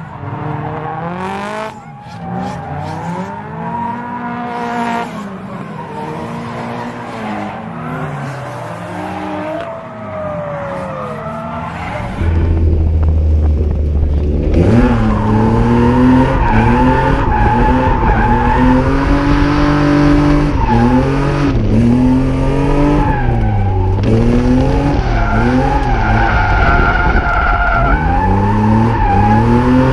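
Drift cars running hard, engines revving with the pitch rising and falling over and over, and tyres skidding and squealing. About twelve seconds in, the sound jumps suddenly louder and stays there.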